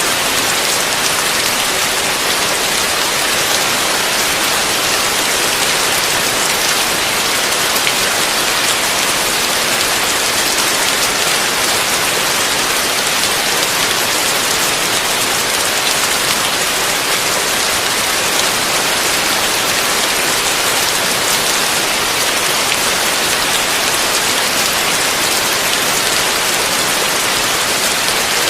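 Heavy rain on a roof, falling steadily as a dense, even hiss with no let-up.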